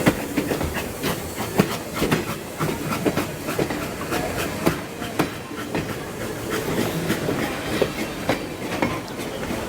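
Train cars rolling past, their wheels clicking irregularly over the rail joints over a steady rumble.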